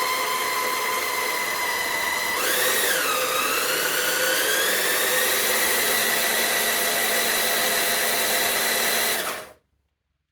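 CaDA M geared electric motor running with a steady high whine. About two seconds in it gets a little louder and its pitch dips and climbs back, a change in load, then it runs steadily until it stops abruptly near the end.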